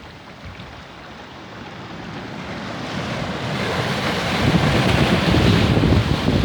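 Sea surf: a wave swelling and breaking on the shore, the rush of water growing louder to a peak about two-thirds of the way through, with wind buffeting the microphone.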